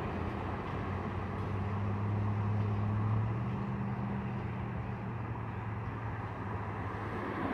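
Freight train rolling away down the line, mixed with road traffic passing alongside; a steady low engine hum is strongest a couple of seconds in and then fades.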